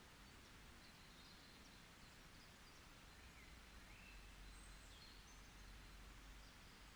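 Faint, distant birdsong in a quiet forest: scattered short chirps and brief whistled glides over a soft background hiss, with a thin steady high tone throughout.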